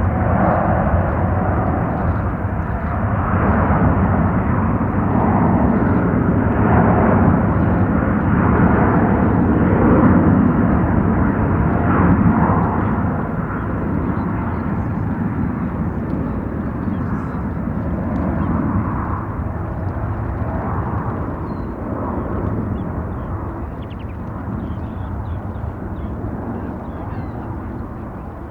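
Boeing 787-10 Dreamliner jet engines at takeoff thrust as the airliner departs: a heavy rumble that builds to its loudest about ten to twelve seconds in, then fades steadily as the plane climbs away.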